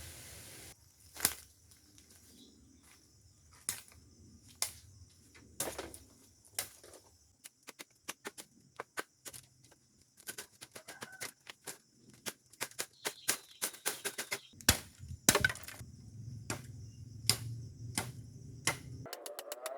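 A run of sharp, irregular cracks and snaps, sparse at first and coming thick and fast in the second half.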